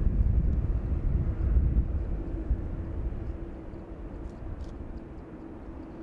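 Jet airliner on its landing approach, a low rumble with a steady engine tone that fades away over the first few seconds.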